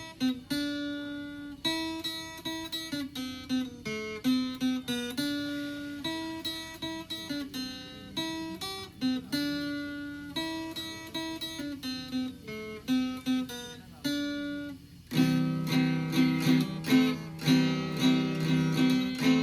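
Acoustic guitar music: a picked melody of single notes, then louder, fuller strummed chords from about fifteen seconds in.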